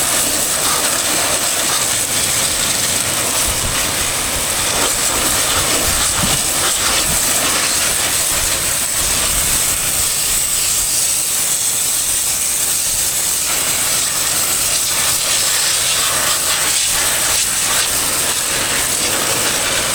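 Pressure-washer water jet spraying steadily onto a hay baler's metalwork, a constant loud hiss.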